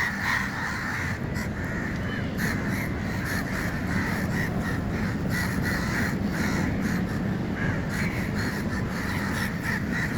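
Flock of birds calling over one another without a break, many overlapping short calls.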